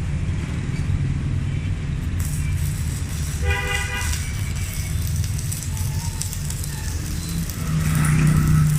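Stick welding with a Megatec 120EF mini inverter welder burning a 3.2 mm electrode. The arc crackles and sizzles over a steady low hum, with the crackle starting about two seconds in, and a short toot sounds about three and a half seconds in.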